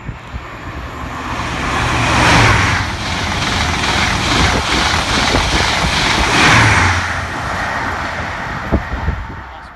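LNER InterCity 225 express with Mark 4 coaches passing through the station at speed: a rushing roar of wheels and air that builds, swells twice, and carries a quick, even clatter of wheelsets on the rails before fading away. A single sharp knock comes near the end.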